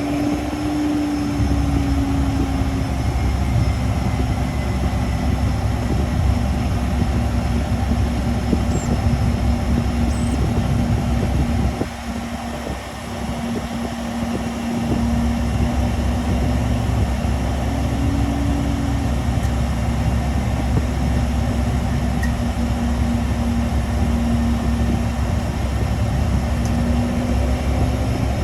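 Learjet 60's twin Pratt & Whitney PW305A turbofan engines running at taxi power: a steady deep rumble with a slowly wavering hum, dipping briefly in loudness about halfway through.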